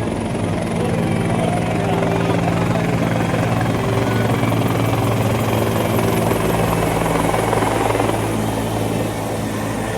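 Helicopter flying overhead, its rotor beating steadily, a little quieter near the end.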